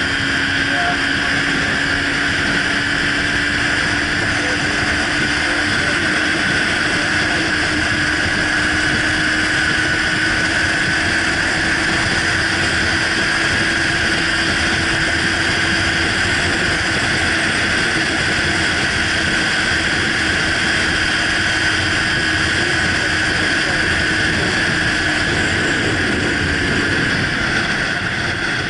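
Motorcycle under way at a steady cruise: a steady engine drone whose pitch creeps slightly up and then fades out near the end, under loud wind rush on the microphone.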